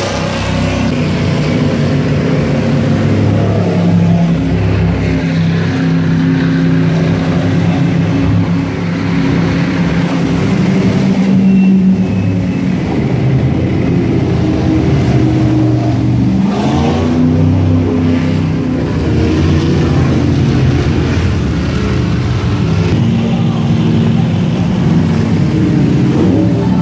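Several powerboat engines running loudly and steadily, their engine notes layered over one another. About two-thirds of the way through, one engine's pitch swoops down and back up.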